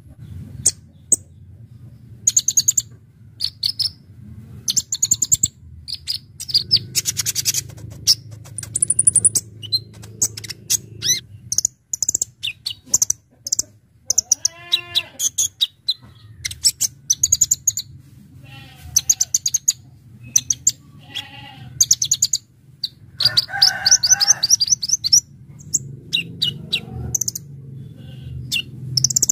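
Kolibri ninja sunbird in full song: rapid, sharp, high chirps and fast trills in quick bursts, over a steady low hum. A few lower, drawn-out calls come near the middle and again about two-thirds of the way through.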